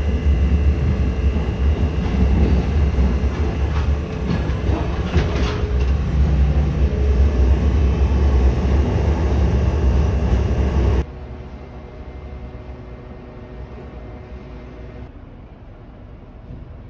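Train running with a heavy, steady rumble and a few clicks around five seconds in; about eleven seconds in the sound cuts abruptly to a much quieter steady hum.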